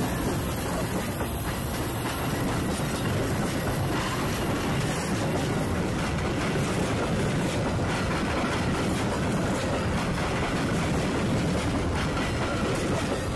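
Metra commuter train's bilevel passenger cars rolling slowly past over a switch, a steady rumble of steel wheels on rail with faint clicks from the rail joints.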